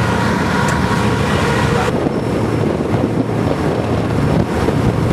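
Wind blowing across the microphone on a moving boat, over a steady low rumble of engine and water. The high hiss drops off suddenly about two seconds in.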